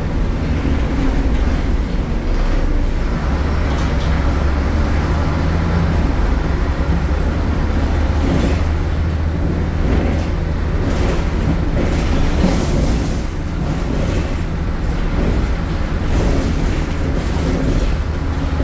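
Diesel engine of a MAN A76 Lion's City city bus running under way, a loud, steady low drone, with short knocks and rattles scattered through, more of them in the middle.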